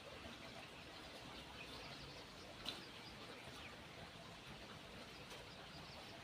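Faint outdoor background with small birds chirping now and then, and a single sharp click nearly three seconds in.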